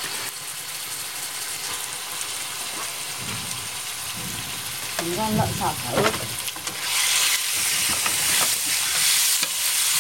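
Pig liver sizzling as it stir-fries in a cast-iron pan over a wood fire: a steady frying hiss that grows louder about seven seconds in, with the pan being stirred near the end.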